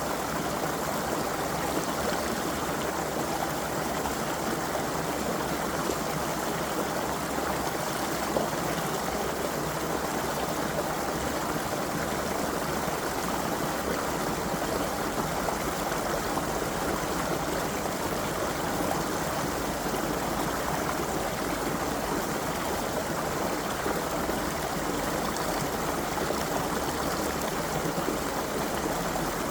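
A creek flowing steadily: a continuous, even rush of running water.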